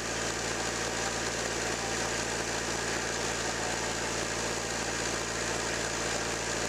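Toyota 2L four-cylinder diesel engine idling steadily.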